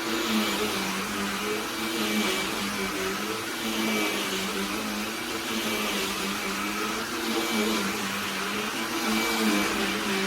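BLACK+DECKER Dustbuster cordless handheld vacuum running steadily: a motor hum with airflow hiss, its pitch wavering slightly.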